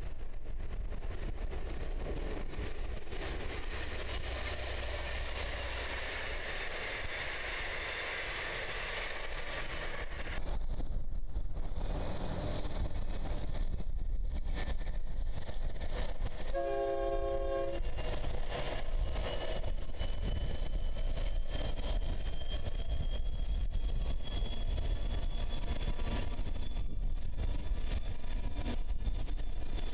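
Diesel-hauled passenger train rumbling as it moves away over a steel trestle viaduct. After a cut, a locomotive horn sounds once, for about a second. Then a Pacific National diesel freight locomotive approaches with a low rumble and a thin high whine that slowly rises in pitch.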